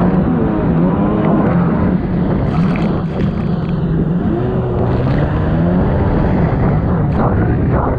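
1999 Sea-Doo XPL personal watercraft's two-stroke engine running hard, its pitch rising and falling several times as the throttle is worked, over a steady rush of water and wind.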